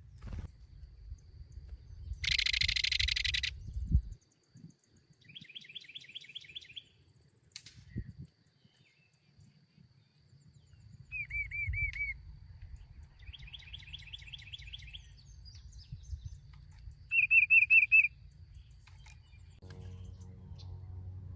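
Small songbirds calling and singing in separate phrases: a buzzy burst, rapid trills and short repeated chirps, the loudest set of chirps coming late. A low rumble runs underneath, and a low hum comes in near the end.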